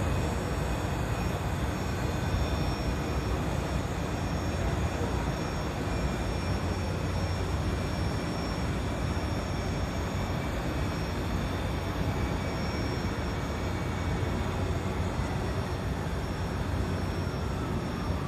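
Asagiri engine running steadily on a test run: a continuous low drone under a broad rushing noise, with a thin steady high whine on top. Near the end a fainter tone begins to slide down in pitch.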